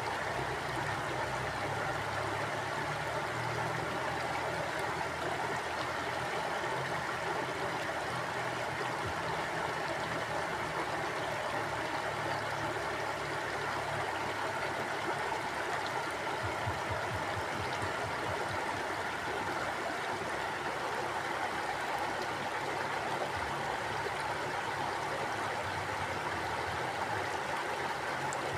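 Stream water flowing and gurgling over rocks in a steady, unbroken rush.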